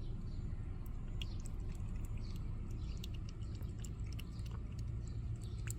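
A cat eating close by: a run of small, irregular wet clicks of licking and chewing, over a steady low rumble.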